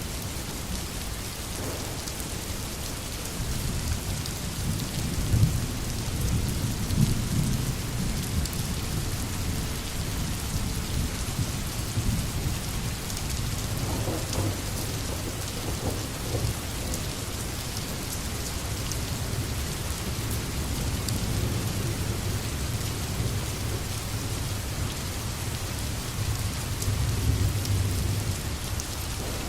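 Steady rain with fine patter of drops, under a low rumble of distant thunder that swells a few seconds in and again near the end.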